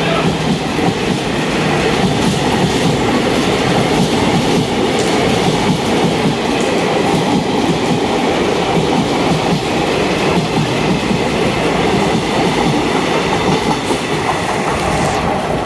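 Indian Railways passenger coaches running through a station at speed: a steady loud rumble of steel wheels on rail, with a repeated clatter over the rail joints.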